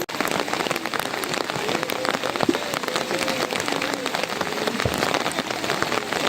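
Heavy rain falling, a dense patter of drops striking surfaces close by.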